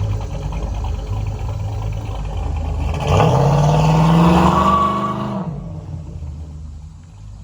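Cammed 5.3 L V8 of a Chevrolet Silverado through an aftermarket exhaust, running at a choppy, uneven idle, then revved about three seconds in, its pitch climbing for a couple of seconds before it drops back and the sound fades.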